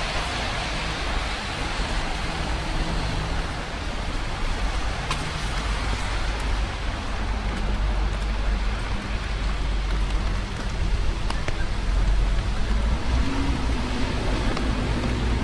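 Steady rain hiss with a low rumble of road traffic underneath, and a few sharp ticks of raindrops.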